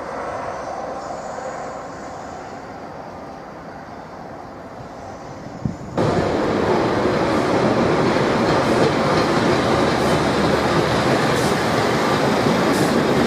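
Train running on the rails: a quieter stretch, then about six seconds in a sudden jump to a loud, steady rumble with faint clicks.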